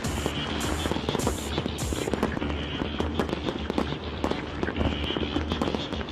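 Fireworks bursting and crackling in rapid succession over music. A regular beat in the music is heard in the first two seconds.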